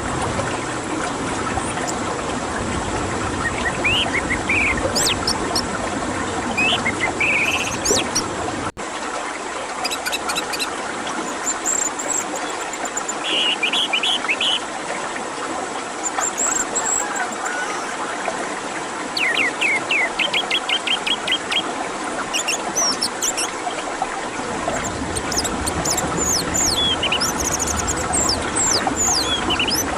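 Orange-headed thrush song in a bird-therapy recording: short varied phrases of chirps, fast runs of repeated notes and sliding whistles over a steady hiss. There is an abrupt splice about nine seconds in.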